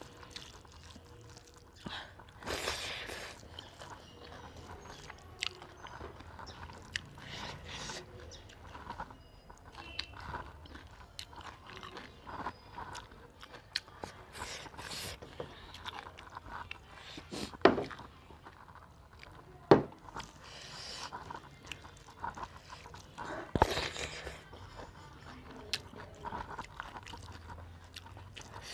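Eating by hand from a metal plate: chewing and biting of rice, greens and curry, with soft squelches of fingers mixing the food. Several sharp clicks stand out, loudest about two-thirds of the way through.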